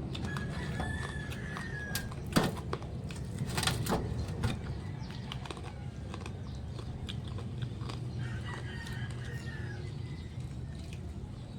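A rooster crowing twice in the background, one long call near the start and another about eight seconds in. Between them come a few sharp crunches or clicks, the loudest about two seconds in, over a steady low hum.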